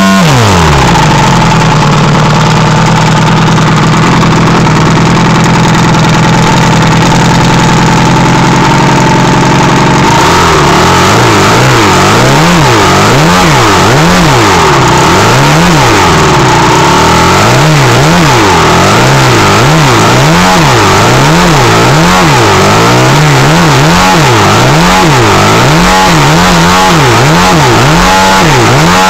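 Rebuilt DLE 222 four-cylinder two-stroke model-aircraft gas engine running hard with a 32x10 propeller. It holds a steady high speed for about ten seconds, then is revved up and down over and over, about once a second.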